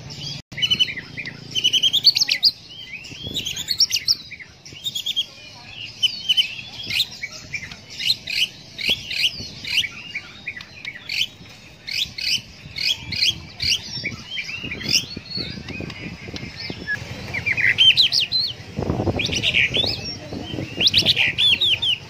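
White-rumped shama (murai batu) singing a rapid, varied song of high whistles, trills and chirps in quick phrases with short pauses between them.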